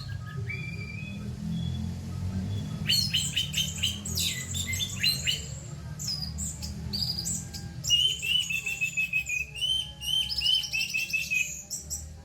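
Orange-headed thrush (anis merah) singing in dense, rapid bursts of harsh, chattering notes, starting a few seconds in and ending in a long run of fast repeated notes. A steady low hum runs underneath.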